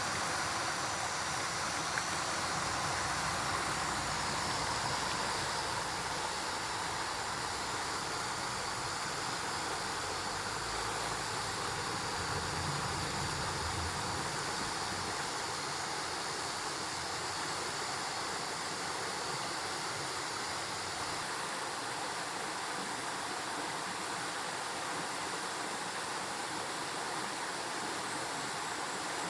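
Mountain stream rushing over rocks, a steady rush of water. A low rumble underneath fades out about halfway through.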